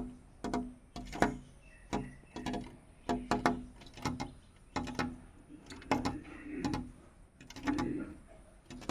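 A small bird pecking at a black glass mirror: irregular sharp taps, often two or three in quick succession, repeating every half second or so, as it attacks its own reflection.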